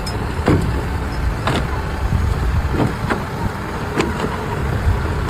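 A steady low mechanical rumble with about five sharp knocks scattered through it.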